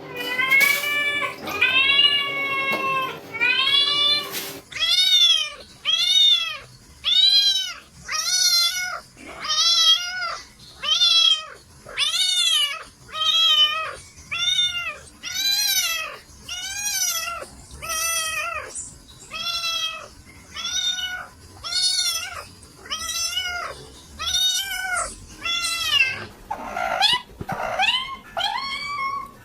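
Domestic cats meowing over and over, about one meow a second, each meow rising then falling in pitch, with a steady hum under the first few. Near the end the calls change to shorter, rising cries.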